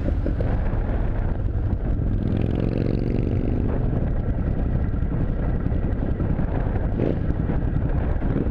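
Motorcycle engine running while riding, with wind rushing over the microphone; the engine note rises for a moment about two seconds in.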